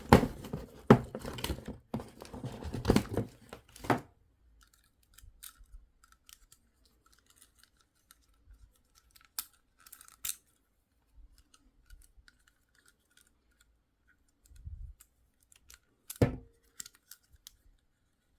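Plastic toy packaging being worked open by hand, crinkling and tearing for the first few seconds. Then come scattered faint clicks, a soft low thump and one sharp click near the end.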